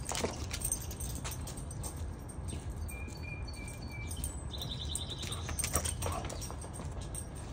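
Small songbird calling: a few short, evenly spaced high chirps about three seconds in, then a fast trill lasting about a second. A low steady rumble runs underneath.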